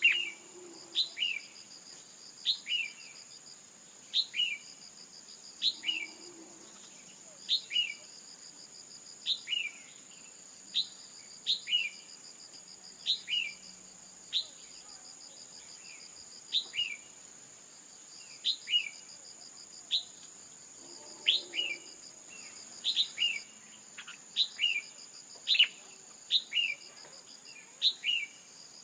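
Female red-whiskered bulbul calling: short, sharp falling notes in clusters of two or three, repeated every one to two seconds. A steady high-pitched buzz runs beneath.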